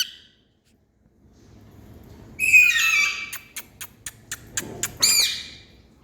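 Indian ringneck parrot calling: a harsh, pitched screech about two and a half seconds in, then a quick run of sharp clicks, and a short arched chirp near five seconds.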